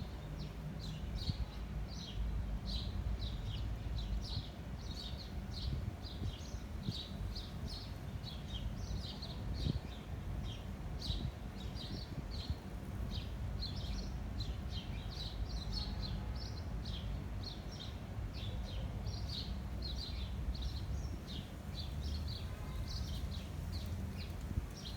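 Small birds chirping continuously in short, quick notes. A steady low rumble of wind buffeting the microphone runs underneath.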